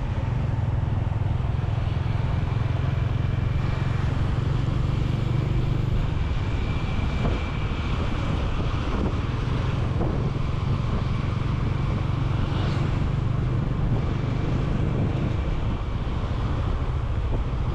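Motorcycle engine running steadily while being ridden, with road and traffic noise around it.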